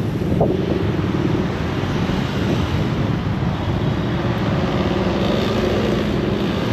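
Busy city street traffic: vehicle engines running close by in a steady, loud din.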